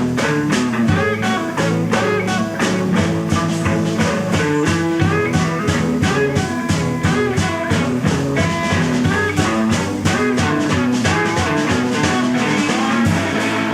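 Live electric blues band playing an instrumental passage: amplified electric guitars, one played with a slide, over a steady drum-kit beat, with no bass guitar.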